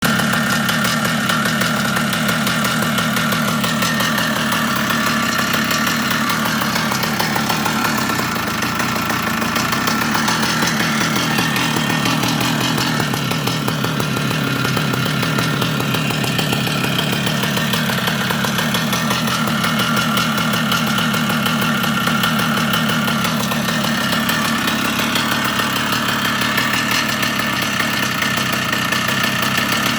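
1975 CZ 250 motocross bike's single-cylinder two-stroke engine running steadily, its engine speed shifting a little now and then.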